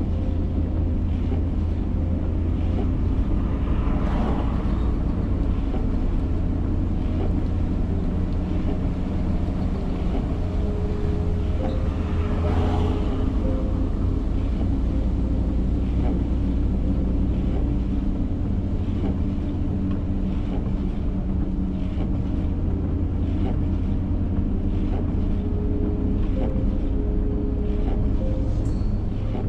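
Vehicle driving: steady engine and road noise, a constant low rumble with a faint hum.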